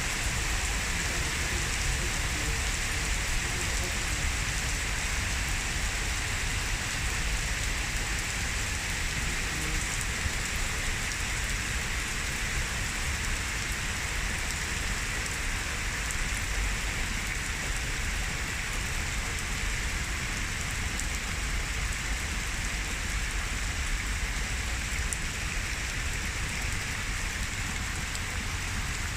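Heavy rain pouring down steadily in a summer thunderstorm downpour.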